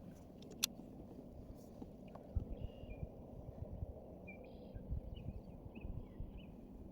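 Quiet outdoor ambience: a low rumbling noise with soft thumps, a sharp click about half a second in, and faint short high chirps.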